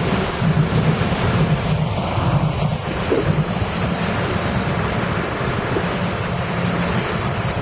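TEMU1000 Taroko Express tilting electric train running past and pulling away, a steady rushing rumble of wheels and motors, with wind on the microphone.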